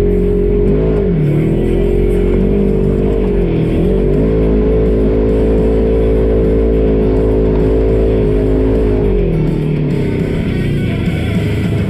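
Polaris RZR side-by-side's engine running under changing throttle, its pitch dipping briefly twice and falling away near the end as it slows, with guitar rock music playing.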